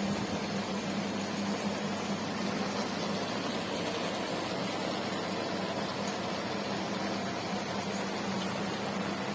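Steady drone of aquarium equipment, air pumps and filters running: a constant low hum under an even hiss.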